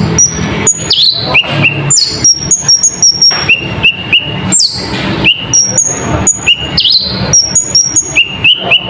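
Loud bird song played as a lure track: rapid sharp chirps and short whistled notes that sweep down in pitch, repeating over and over with dense clicking notes packed between them.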